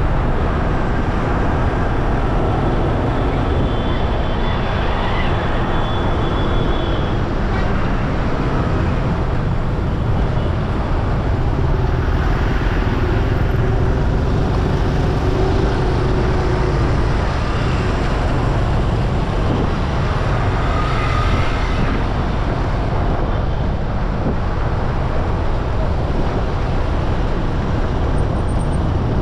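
Steady rush of road and wind noise from riding a bike through traffic, with other vehicles passing.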